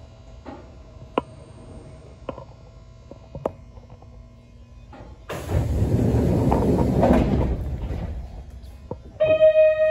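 Yoro Railway 600-series train standing with a low hum and a few faint clicks, then a loud pneumatic air hiss about five seconds in that lasts nearly three seconds. Near the end an electronic chime rings.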